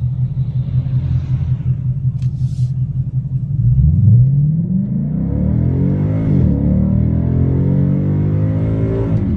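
Ford Mustang 5.0 V8 running through a true dual 3-inch stainless catback exhaust with X-pipe and free-flowing mufflers, idling with a steady pulsing rumble. About three and a half seconds in it revs up sharply, holds at higher revs with the pitch slowly climbing, and drops back near the end.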